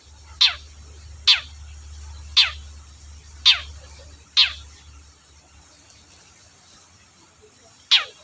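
Long-tailed shrike (cendet) giving short, harsh calls, each a quick downward sweep, about one a second. After a pause of a few seconds comes one more call near the end. A low hum runs under the first half.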